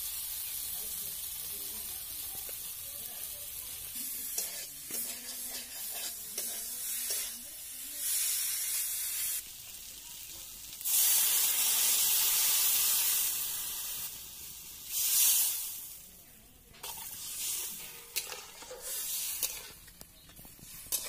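Potato chunks and spice paste sizzling in a hot metal kadai, stirred and scraped with a flat spatula. About eleven seconds in, water goes into the hot pan and the hiss turns much louder for some three seconds. After that the sound drops to the quieter sizzle of a liquid curry.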